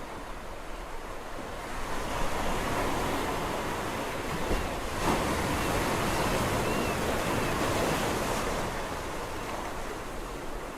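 Sea waves surging and washing onto the shore, one swell building about two seconds in, strongest through the middle and receding near the end.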